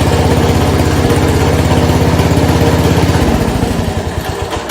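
1970 Cub Cadet 127 garden tractor's single-cylinder Kohler engine running steadily, then shut off a little over three seconds in, its firing pulses slowing as it winds down. It runs again now that the popped-off spark plug wire is back on.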